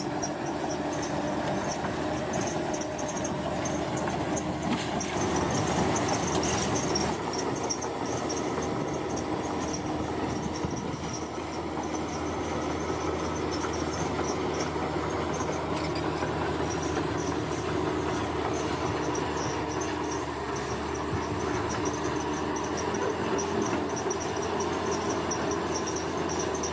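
Bulldozer's diesel engine running steadily under load as it works, with a high, uneven chirping over the top throughout.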